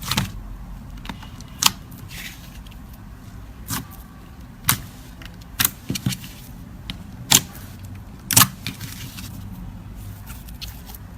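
Slime squeezed and worked by hand, giving irregular sharp pops and clicks as trapped air breaks through, about ten of them, over a low steady background hum.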